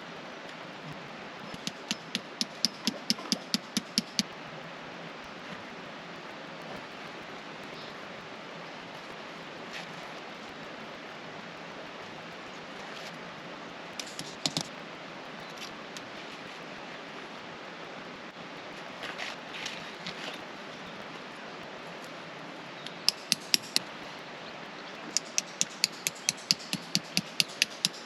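Runs of quick, sharp clicks, about four or five a second, over a steady background hiss. A longer run comes near the start and more runs come towards the end.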